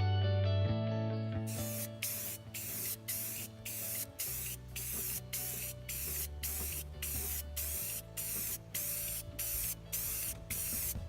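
Paint being sprayed in short, evenly repeated hissing bursts, about two to three a second, starting about a second and a half in, over background music.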